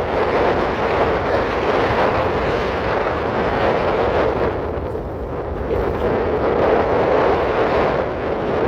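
Wind buffeting the microphone: a loud, steady rumbling noise that swells and eases slightly.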